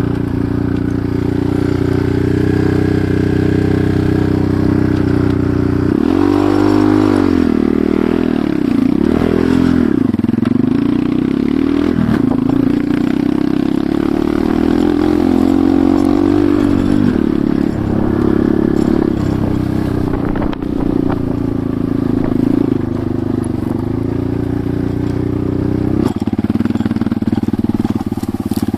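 Enduro motorcycle engine running while riding, its pitch dipping and rising sharply several times about a quarter of the way in as the revs change, then shifting again later.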